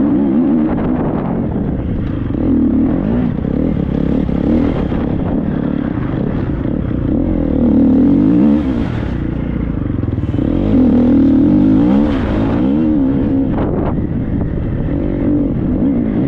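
Triumph 250 motocross bike's four-stroke single-cylinder engine being ridden hard off-road, its revs rising and falling again and again as the throttle is worked and blipped.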